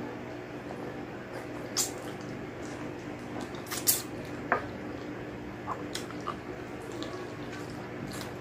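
Close-miked wet eating sounds: lips smacking and sucking while chewing gelatinous beef skin and tendon from a balbacua stew, with short sharp clicks every second or so, over a faint steady hum.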